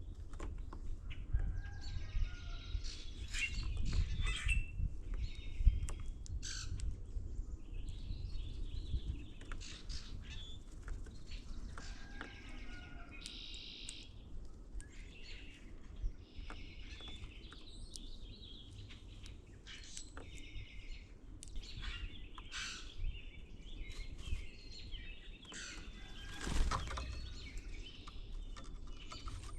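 Songbirds at a feeder giving repeated short, squeaky and chattering calls and chirps, with scattered clicks, a low rumble of wind, and one brief louder thud near the end.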